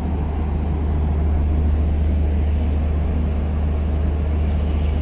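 Steady low hum and rumble of a stationary passenger train standing at a station platform.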